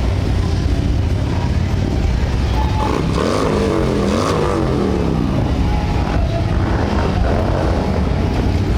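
Motorcycle engines running, with one engine's pitch rising and falling about three to five seconds in.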